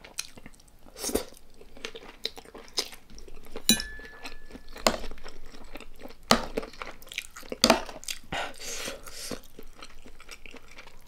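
Close-miked eating of spicy Isan papaya salad: wet chewing broken by irregular sharp crunches of the raw shredded papaya and vegetables, the loudest crunches about six and seven and a half seconds in.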